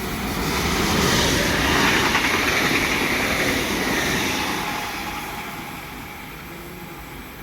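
A train passing through the station, its rumble and rail noise swelling to a peak a second or two in and then fading away over the next few seconds.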